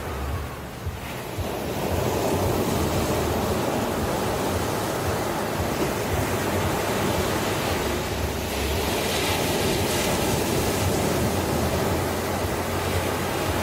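Ocean surf washing on a shore: after a brief lull the wash swells up about two seconds in and carries on steadily, with a brighter hiss of breaking water around eight to ten seconds in.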